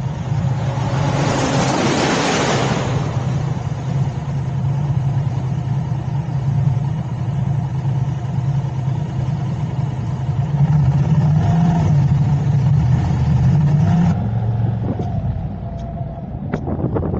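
Car driving in city traffic: a steady low engine and road hum, with a loud rush of noise about one to three seconds in and a few sharp clicks near the end.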